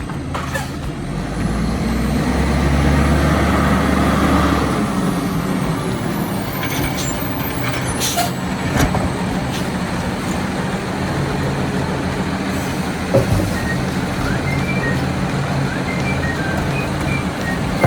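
Republic Services side-loader garbage truck's engine rumbling, louder for the first few seconds and then steadier, with a couple of brief sharp sounds near the middle.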